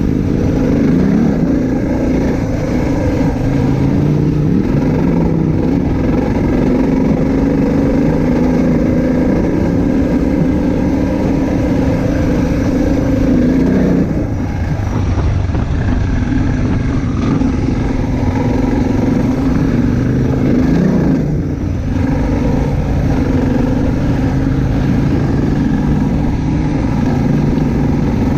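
Motorcycle engine running under way, its note rising and falling with the throttle, over a haze of wind and road noise. The engine note drops away briefly twice, about halfway through and again about three quarters through.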